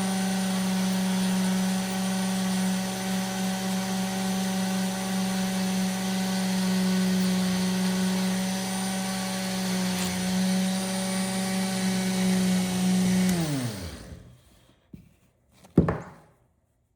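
Small electric polishing tool running at a steady speed as it buffs stains off a pocketknife blade at the nail nick, then switched off and spinning down with a falling whine about three quarters of the way through. A sharp click follows near the end.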